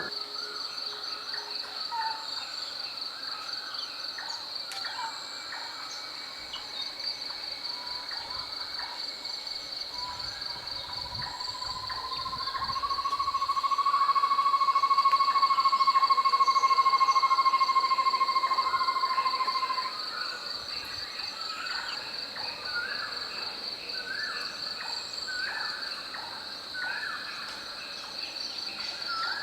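Natural forest sound: insects chirring steadily in a high, fast pulse, with scattered bird calls. About ten seconds in, a long even trill swells, rises slightly and cuts off suddenly about ten seconds later. Short repeated call notes follow near the end.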